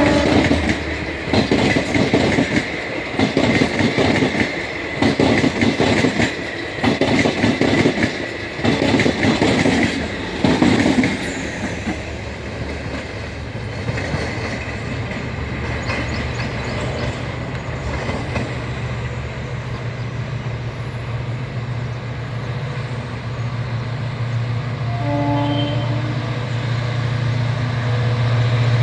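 Express train coaches passing on the rails, their wheels clattering over rail joints in an even rhythm about once a second for the first ten seconds. After that a steady low drone takes over and slowly grows louder toward the end.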